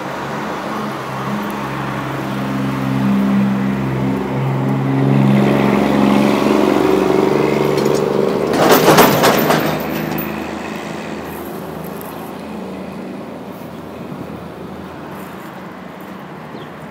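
A motor vehicle's engine running as it drives by, growing louder to a peak about nine seconds in, where a brief loud clatter sounds, then fading away.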